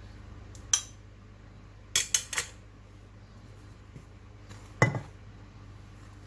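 Kitchen bowls and utensils clinking and knocking: a single clink about a second in, three quick clinks around two seconds, and a heavier knock near five seconds.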